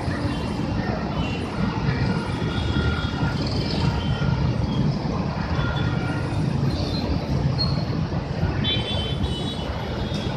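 Transjakarta city buses running at a busway stop: a steady low engine rumble, with thin high tones coming and going above it.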